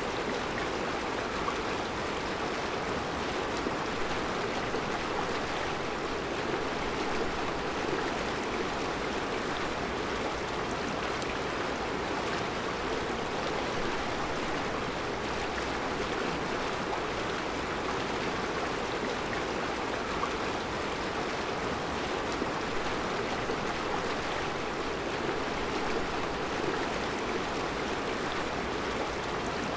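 Mountain river flowing steadily over round rocks, an even rushing of water with no breaks.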